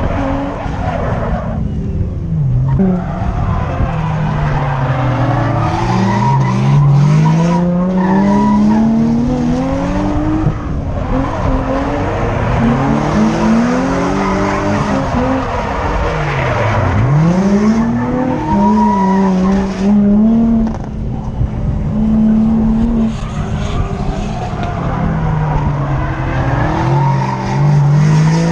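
Drift car engine revving up and down again and again through slides, over tyre squeal and skidding noise. Now and then the revs hold steady for a second or so before dropping away.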